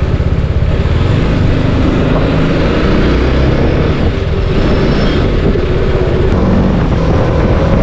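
Motorcycle riding on the road, its engine running steadily under heavy wind rumble on the microphone.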